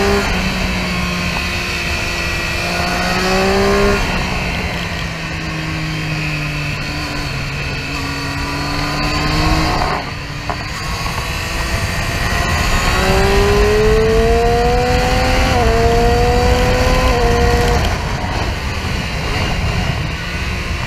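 Triumph Street Triple R's three-cylinder engine on track, its revs climbing under throttle and dropping off several times, with short dips at gear changes in the second half, under heavy wind rush.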